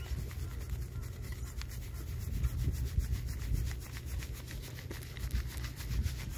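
Low, uneven rumble with rubbing and scratching noise on the microphone, as from wind and handling of a phone or clothing outdoors.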